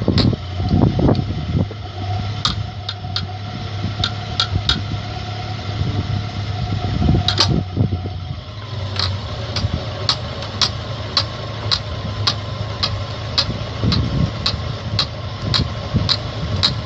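Audi car engine running steadily, driving its wheel to turn a steel rod through a threading die. Sharp metallic clicks sound over it, irregular at first, then regular at about two a second from about halfway.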